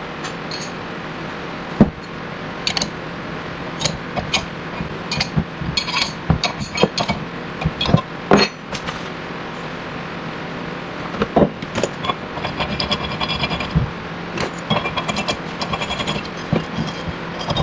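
Hand tools working on a bearing splitter clamped on a wheel bearing's inner race. A ratchet wrench clicks and metal clinks and knocks come at irregular intervals, with faster runs of clicking in the second half, over a steady hum.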